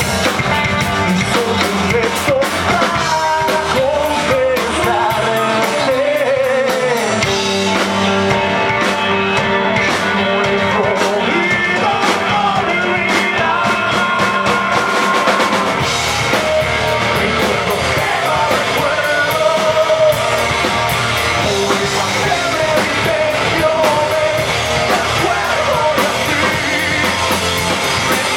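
Rock band playing live at full volume: drum kit, guitars and singing.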